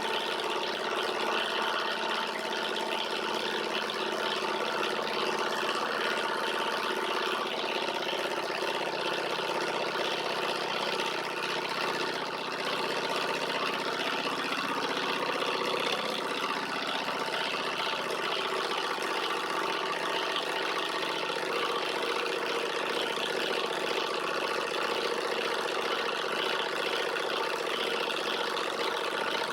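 Alpha-type Stirling engine running steadily, a continuous mechanical whir with a fixed hum of several tones.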